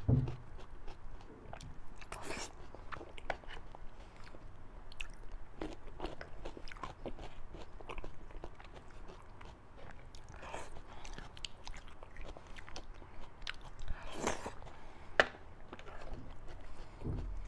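Close-miked chewing of fatty beef and bone marrow: a steady run of soft, wet mouth clicks and smacks, with one sharper click about fifteen seconds in.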